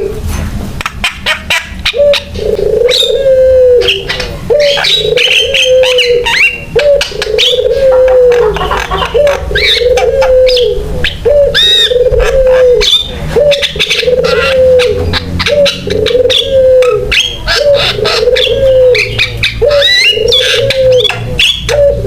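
Javan myna singing in full voice: a busy run of chirps, whistles and clicks over a low cooing note repeated about once a second.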